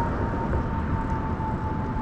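Riding a 2000 Kona Blast mountain bike: low rumbling wind and road noise, with a thin steady whine that sinks slowly in pitch.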